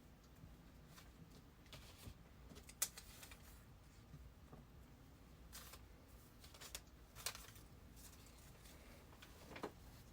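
Near silence: room tone with a handful of faint, sharp clicks and rustles, the clearest about three seconds in.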